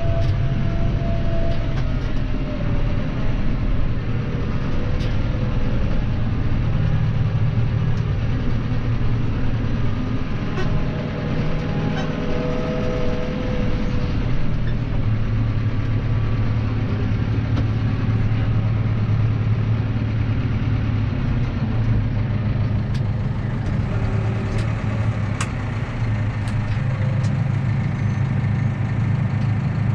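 Claas Arion 530 tractor's diesel engine running steadily under way, with a few scattered clicks and rattles.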